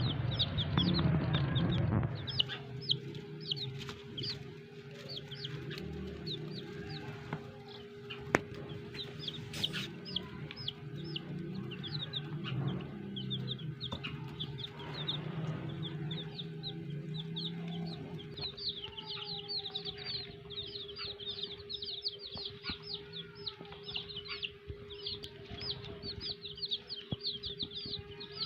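Many domestic chicks peeping: a dense stream of short, high, falling cheeps that grows busier toward the end, over a steady low hum.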